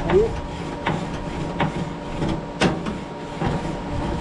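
Grill grate being scrubbed with a grill brush: a run of short scraping strokes, about one every three-quarters of a second, with one louder stroke about two and a half seconds in.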